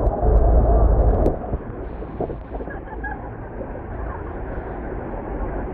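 Steady rushing roar of Horseshoe Falls and wind in the spray, with heavy wind rumble on the microphone for about the first second before it settles lower.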